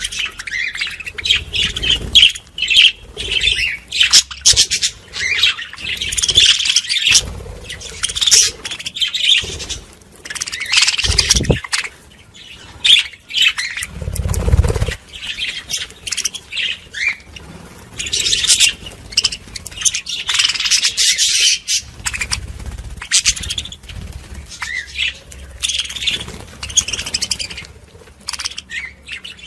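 A flock of budgerigars chattering, with continual quick chirps, squawks and warbles overlapping. A few low thuds break in, the loudest about halfway through.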